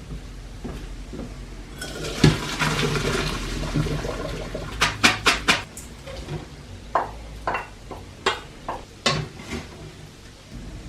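Water splashing into a sink for about two and a half seconds, then a quick run of four sharp metallic clinks and several more scattered knocks of pots and utensils.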